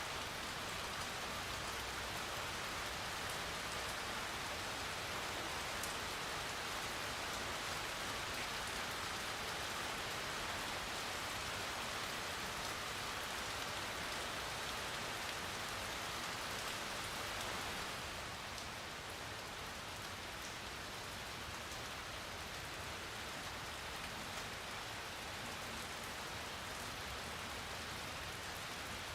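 Steady rain falling, with a dense hiss of drops and faint scattered individual drop ticks. About two-thirds of the way through it becomes slightly softer and less bright.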